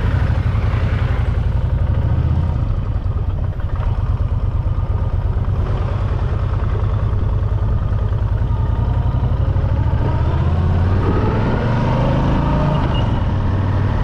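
Motorcycle engine running while riding, a steady low pulsing, rising in pitch about ten seconds in as it accelerates.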